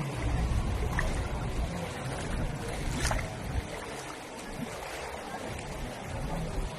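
Floodwater sloshing and splashing over an uneven low rumble, with a sharp knock about three seconds in.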